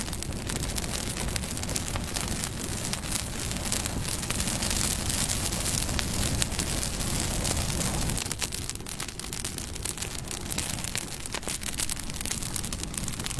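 Wood bonfire burning, a steady rush of flame with frequent sharp crackles and pops, swelling a little louder midway.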